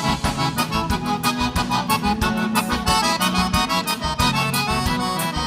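Live gaúcho dance band playing an instrumental passage between sung verses, the button accordion (gaita) carrying the melody over a steady beat.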